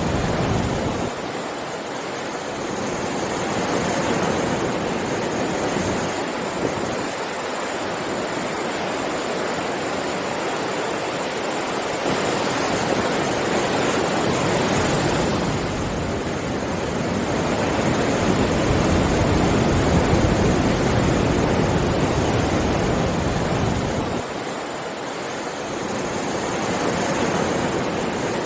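Sea waves breaking and washing on a shore, a continuous rushing surf that swells and eases over several seconds.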